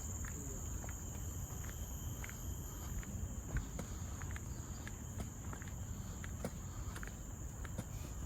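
Steady high-pitched drone of forest insects, with a second fainter tone below it, over the scattered light clicks of footsteps on a path.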